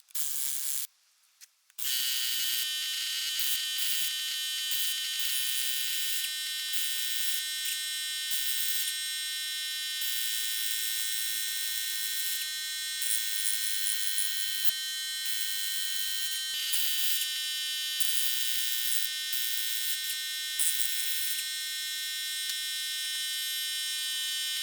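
A steady high-pitched electronic whine made of many tones, starting about two seconds in, with faint scattered clicks.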